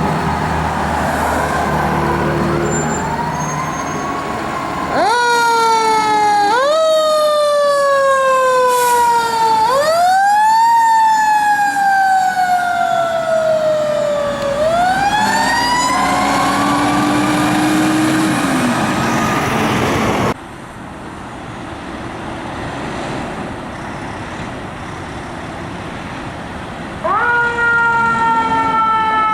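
Fire apparatus sirens sounding as the engine and squad respond, the pitch repeatedly rising sharply and falling away slowly. About 20 seconds in the sound drops abruptly to quieter road noise, and the siren sweeps return near the end.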